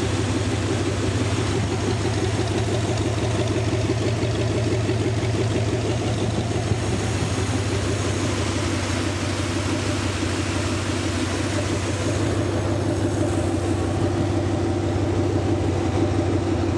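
Freshly rebuilt 368 cubic inch Lincoln Y-block V8 idling steadily at about 750 rpm at operating temperature, running smooth.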